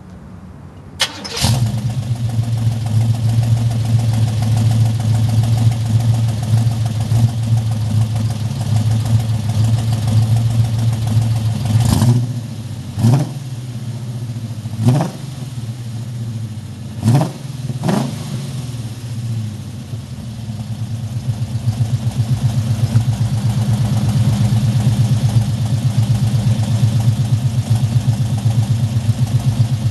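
Olds 350 V8 with a mild Mondello cam, Hooker headers and a Magnaflow 2-1/2 inch exhaust, firing up about a second in and settling into a steady idle. In the middle it is blipped with five quick, mild revs, then drops back to idle.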